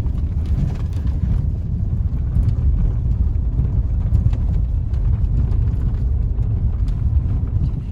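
Car driving on a rough unpaved road: a steady low rumble with small knocks from the road surface.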